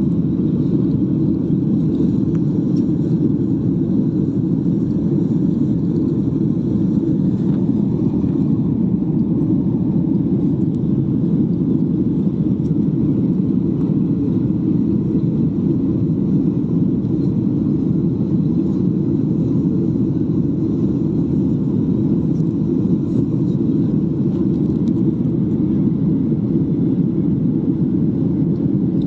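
Steady low rumble of a jet airliner in flight, heard from inside the passenger cabin: engine and airflow noise that stays even throughout.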